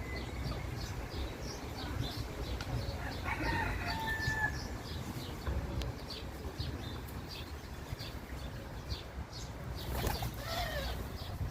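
Free-roaming rooster crowing once about three seconds in, with another call falling in pitch near the end, over steady chirping of small birds.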